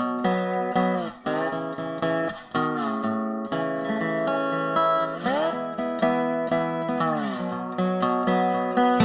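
Background music played on guitar: plucked and strummed chords with notes that slide in pitch, changing about once a second.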